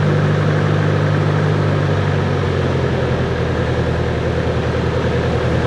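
Cessna 140's piston engine and propeller running steadily, a low drone that shifts slightly in tone about halfway through.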